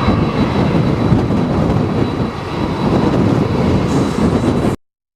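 Strong typhoon wind buffeting the microphone as a loud, uneven low rumble, with a faint steady high whine over it; it cuts off abruptly near the end.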